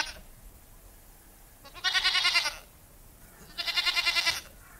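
Goat bleating twice, each a short wavering bleat of under a second: one about two seconds in and one near the end.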